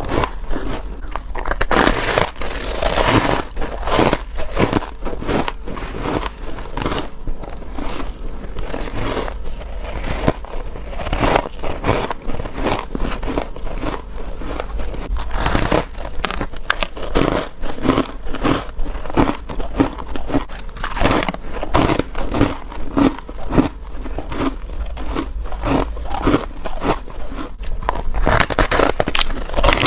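Freezer frost being bitten and chewed close to the microphone: a steady run of squeaky, crispy crunches, one after another with no long pauses.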